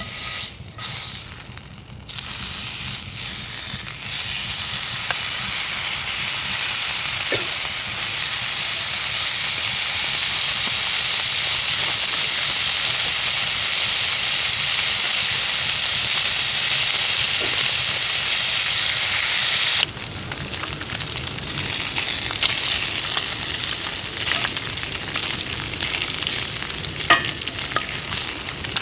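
Steady sizzling hiss that changes abruptly about twenty seconds in to a rougher crackling hiss with a few sharp clicks.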